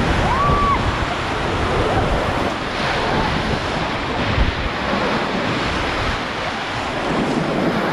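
Rushing whitewater of a river rapid running loudly around the raft, with wind buffeting the microphone.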